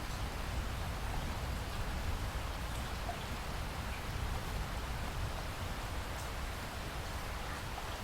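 Steady rainfall in a rainforest, an even hiss of rain with a few faint individual drops ticking through it.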